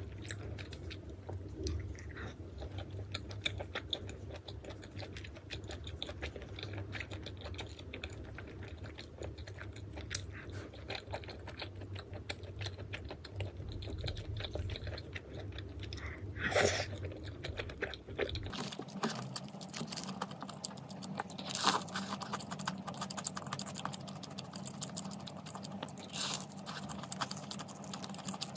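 A person chewing and biting crunchy food close to the microphone, with many small crunches. A low background hum drops out about two-thirds of the way in.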